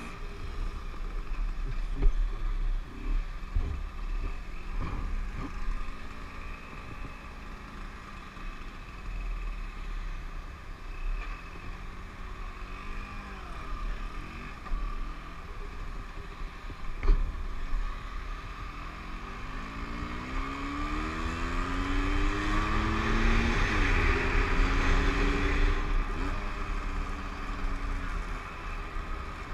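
Motorcycle engine running under way with wind rumble on the microphone. The engine pitch falls and rises about halfway through, then climbs steadily for several seconds as the bike accelerates. There is a single sharp click near the middle.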